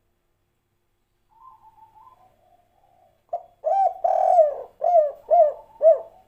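Spotted dove (tekukur) cooing. A faint, soft coo comes about a second in, then from about three seconds a loud phrase: a long coo followed by three short, evenly spaced coos.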